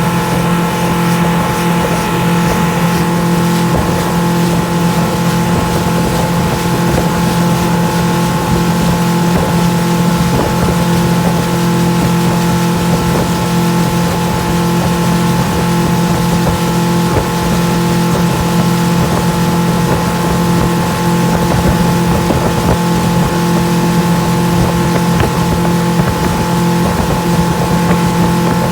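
Motorboat engine running at a steady speed, a constant drone.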